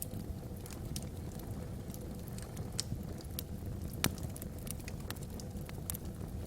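Logs burning in a fireplace, crackling with irregular small pops and one sharper pop about four seconds in, over a steady low rumble of the fire.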